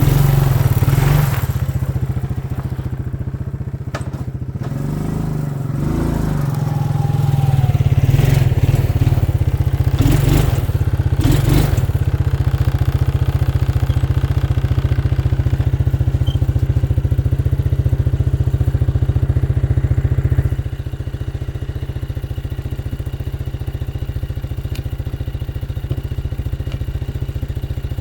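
ATV (four-wheeler) engine running steadily as it is ridden, with a few clattering knocks partway through. The engine level drops noticeably about two-thirds of the way in.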